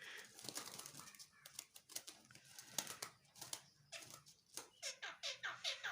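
Pet jalak starling calling: scattered clicks and chatter, then, in the second half, a quick run of short calls that each fall in pitch, about three a second.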